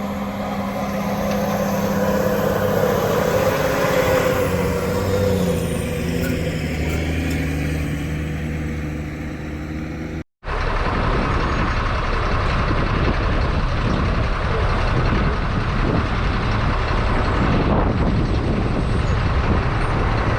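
Heavy diesel farm machinery running, its engine pitch shifting as it works. After an abrupt cut about halfway, a louder, steady rushing machine noise follows.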